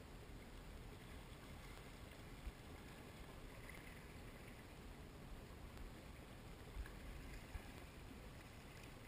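Faint, low rumble of a distant watercraft engine out on the lake, with three short, soft low thumps.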